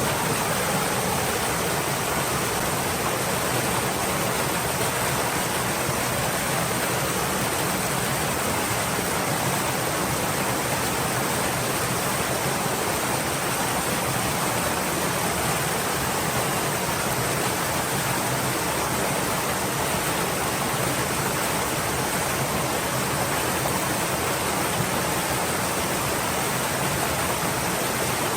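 Small stream flowing, a steady even rush of running water with no breaks.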